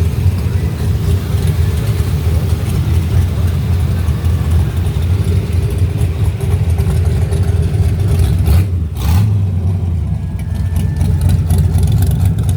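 A motor vehicle's engine running with a steady low rumble, briefly changing about nine seconds in.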